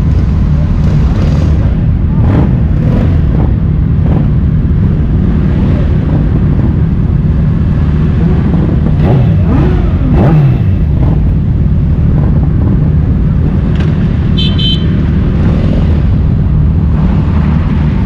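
Motorcycle engines running steadily, with one engine dropping in pitch about ten seconds in. Short high horn toots sound near the end.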